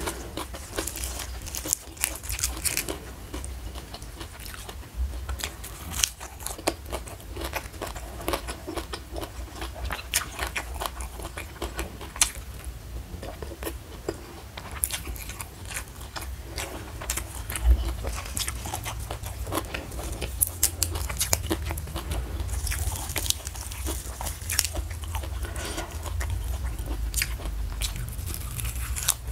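Close-miked chewing and crunching of mouthfuls of raw leafy greens, a continuous run of wet crackles and sharp crisp clicks as the leaves are bitten and chewed.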